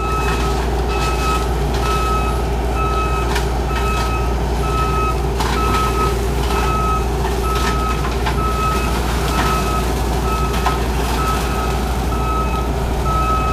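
Backup alarm of a Bobcat compact track loader beeping at a steady, even rate of about one and a half beeps a second as the machine reverses, over its diesel engine running steadily.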